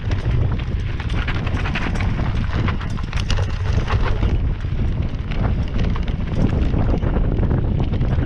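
Wind buffeting the microphone in a steady rumble, over a rapid, uneven clatter of knocks from a mountain bike rattling over a rocky trail.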